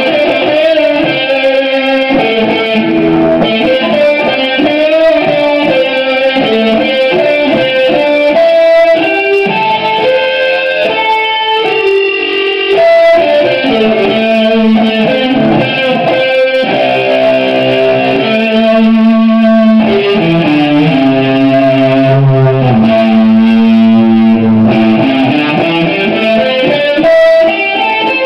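Electric guitar played through an amplifier that has just been repaired, under test: a steady stream of melodic runs and held notes.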